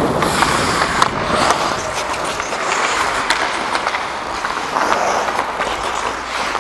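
Hockey skates scraping and rolling across the playing surface during play, with several sharp clacks of sticks striking the puck.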